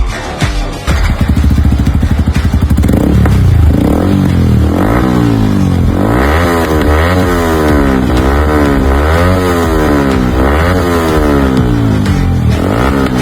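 Yamaha MT-15 V2 motorcycle's single-cylinder engine breathing through an aftermarket Akrapovic full-system exhaust. It runs steadily from about a second in, then is revved again and again in quick blips, the pitch rising and falling.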